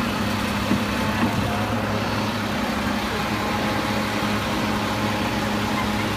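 Automated side-loader garbage truck engine idling steadily.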